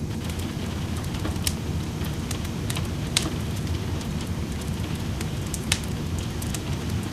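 Wood fire crackling in a fireplace, with sharp pops scattered through it, the loudest about a second and a half, three seconds and nearly six seconds in, over a steady rain rumble.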